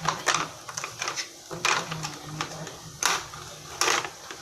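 Plastic toy cars and trucks being handled and set down, a series of short clacks and rattles.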